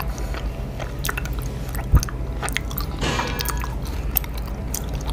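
Close-miked chewing of a soft, sticky daifuku mochi with the mouth closed: small wet clicks and smacks, and a low thump about two seconds in.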